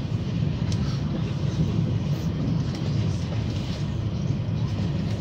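Steady low rumble and rush of an Italo high-speed train running at speed, heard from inside the passenger car.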